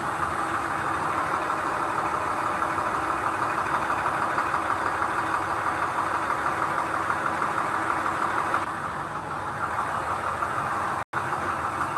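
Heavy diesel earthmoving machine's engine running steadily with a fast rattling pulse. It eases off slightly about three-quarters of the way in and drops out for an instant near the end.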